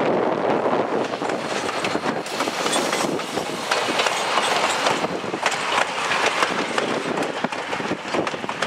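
Vintage steam-hauled passenger train passing close by: heritage coaches rolling past with a steady rumble, their wheels clattering and knocking over the rail joints.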